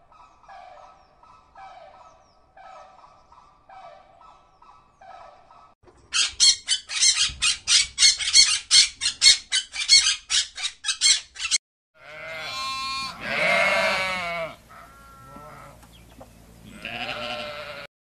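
A sequence of animal calls. First comes a series of short, soft bird calls repeating about twice a second. From about six seconds in there is a loud run of harsh macaw squawks, three or four a second, and after a brief gap there are sheep bleats: one long bleat, then a shorter one near the end.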